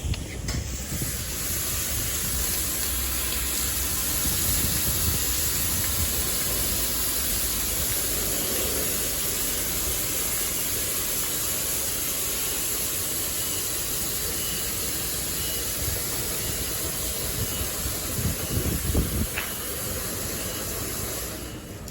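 LaserWash 360 touchless automatic car wash running: a steady, loud hissing rush over a low rumble that starts just after the beginning and cuts off shortly before the end.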